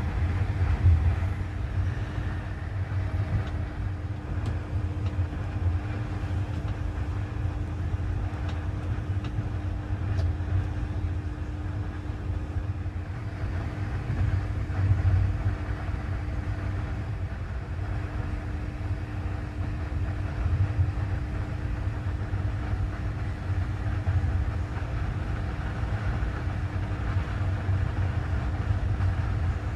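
Passenger train running at speed, heard from on board: a steady low rumble from the running gear with a constant hum over it.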